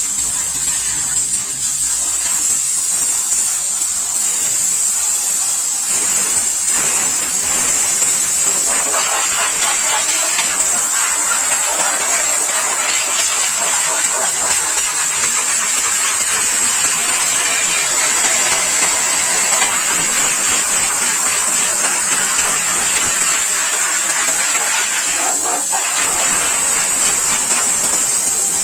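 Pressure washer running and spraying a steady jet of water onto a motorcycle, a continuous hiss that grows heavier from about six seconds in and eases near the end.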